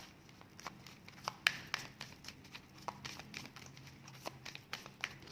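Oracle cards being shuffled and handled by hand: a scatter of soft clicks, taps and flicks as the cards slide and are drawn.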